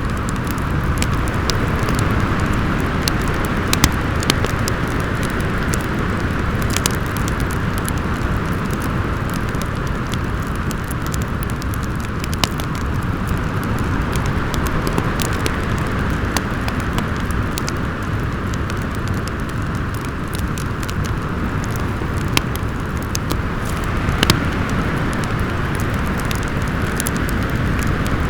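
Storm wind blowing steadily, with a wood fire crackling over it in scattered sharp snaps and pops.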